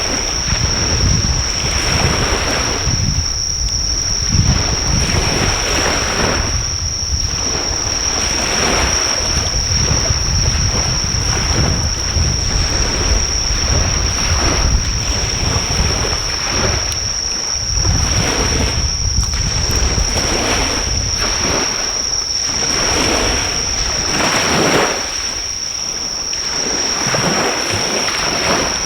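Sea waves washing onto the shore in surges every few seconds, with a continuous high-pitched insect trill throughout. Wind rumbles on the microphone.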